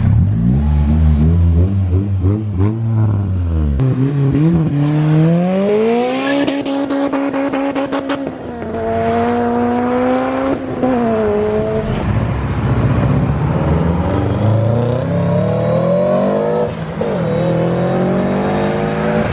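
A car engine accelerating hard, its pitch climbing and then dropping back at each gear change, several times over.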